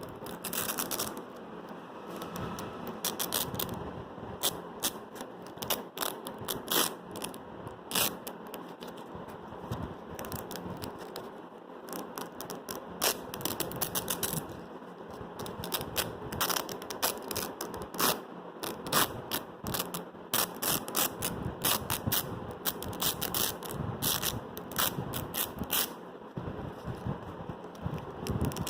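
Velcro hook-and-loop fastener being pulled apart again and again: a dry, crackling rasp in runs of quick strokes with short lulls between.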